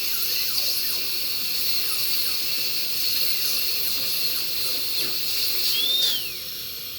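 High-speed dental handpiece whining as it cuts the tooth prep, its pitch dipping and recovering under load, over the steady hiss of HVE suction. The handpiece stops about six seconds in, leaving the suction hiss.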